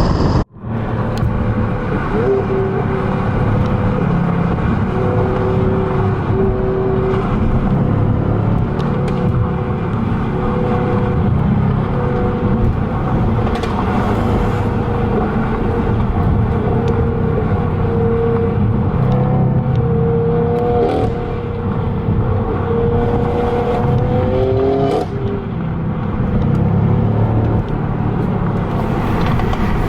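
Car engine and road noise while driving: a steady exhaust drone, with the revs rising briefly twice in the second half.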